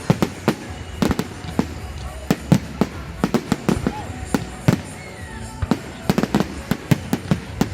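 Fireworks going off in quick, irregular succession: many sharp bangs and crackles, several a second, over a low rumble.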